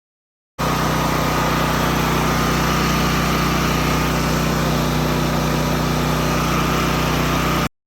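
Portable generator's small engine running steadily under load, with a steady higher whine above its hum; it starts and cuts off suddenly.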